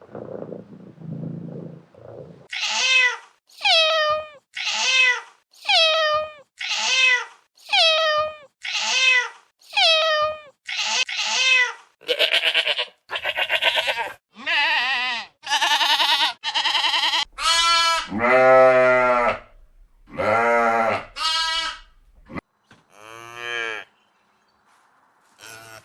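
Farm animals calling one after another. A cat purrs at first, then come about ten short, high calls falling in pitch at roughly one a second, then wavering bleats, and deep cow moos in the last few seconds.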